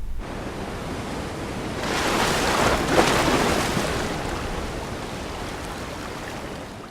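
A rushing noise like wind or surf, swelling about two seconds in, with a short click near its peak, then slowly fading out.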